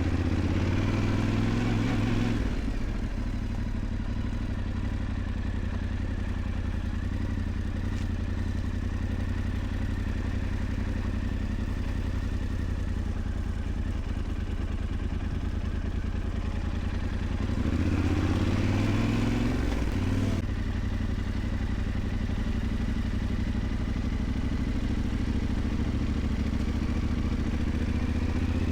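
Yamaha Ténéré 700's parallel-twin engine running steadily as the motorcycle rides along a dirt track, with two louder stretches: one at the start and one about two-thirds of the way through.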